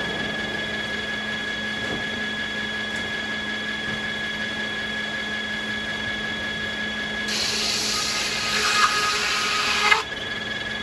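Sawmill machinery running with a steady hum, then a saw cutting through American beech for about three seconds from about seven seconds in, ending abruptly.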